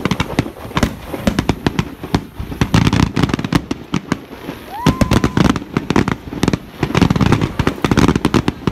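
Aerial fireworks display: a dense, continuous run of bangs and crackles, with a short rising whistle about five seconds in.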